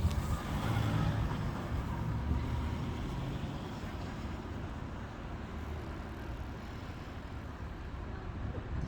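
Low rumble of road traffic mixed with wind buffeting the microphone, easing off slightly partway through. No crossing alarm tone is heard.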